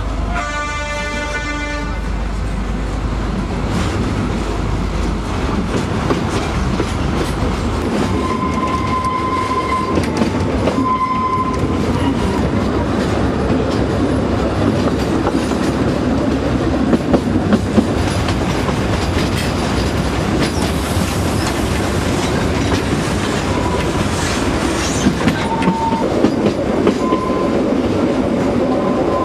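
Narrow-gauge train in motion behind a diesel locomotive. The horn sounds briefly at the start, then the carriages roll on steadily with wheel clatter, a few short squeals from the wheels and occasional sharp knocks.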